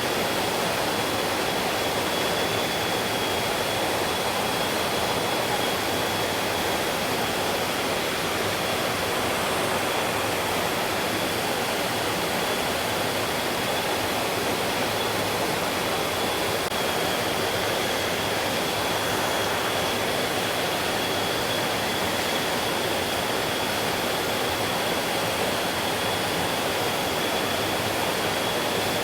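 Stream water rushing steadily, with a thin, steady high-pitched tone above it.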